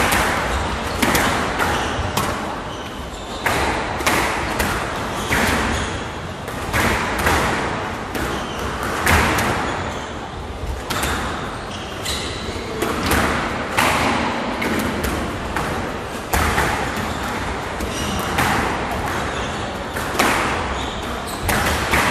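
Squash rally: a hard rubber squash ball struck by rackets and hitting the court walls, a steady run of sharp knocks about every half second to a second. Each knock rings briefly in the enclosed court.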